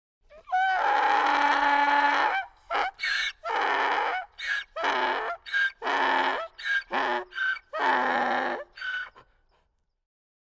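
Donkey braying: one long call, then a run of alternating hee-haw notes, long and short, that stops about nine and a half seconds in.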